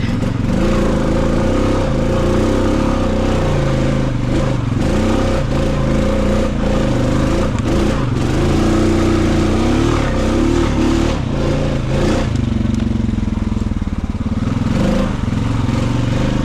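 Honda Rubicon ATV engine running under changing throttle, its pitch rising and falling, with a few brief knocks and clatter now and then.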